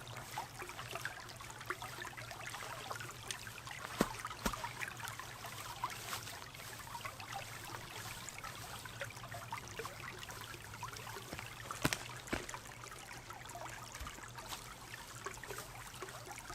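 Water trickling and dribbling, with scattered small ticks and a few sharp clicks, a pair about four seconds in and another pair near twelve seconds.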